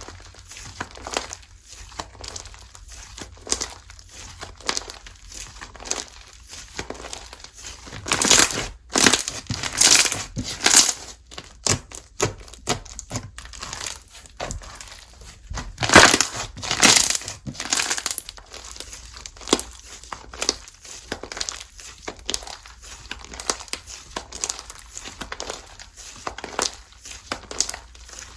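Slime being squeezed, stretched and poked by hand: a steady run of sticky clicks and crackles, with louder, longer stretches about a third of the way in and again just past the middle.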